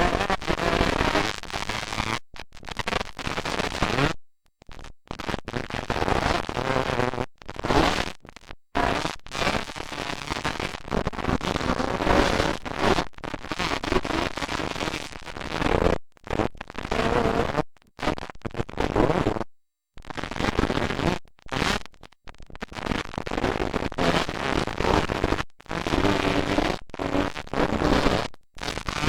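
Motocross dirt bike engines racing, a loud distorted din, with the sound cutting out abruptly many times for a fraction of a second.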